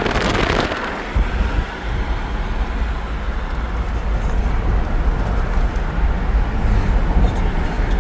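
Vehicle on the move: a steady low rumble of road and wind noise, with a gust of wind on the microphone about half a second in.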